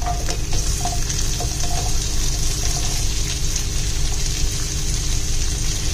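Sliced red onions landing in hot coconut oil in a pan and sizzling steadily, with a few light clicks as pieces drop in during the first second or so, over a steady low hum.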